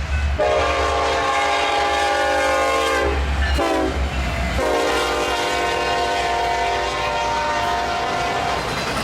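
Diesel freight locomotive's air horn sounding a chord: a long blast, a short one, then another long blast, over the low rumble of the locomotive.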